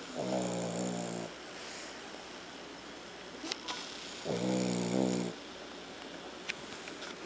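A sleeping dog snoring: two drawn-out snores of about a second each, roughly four seconds apart.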